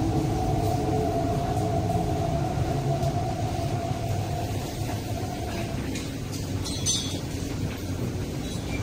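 MTR East Rail Line R-train heard from inside the carriage as it slows to a stop at a platform. A low rolling rumble runs under a steady motor whine that fades out about six seconds in. A short hiss follows about a second later.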